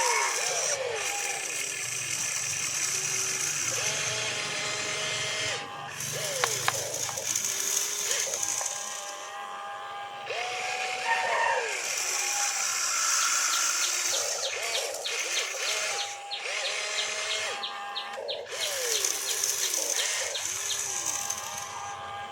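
Small electric motors and plastic gearboxes of radio-controlled toy construction vehicles whining in short runs, each rising, holding and dropping away, with a run of quick gear ticks near the middle.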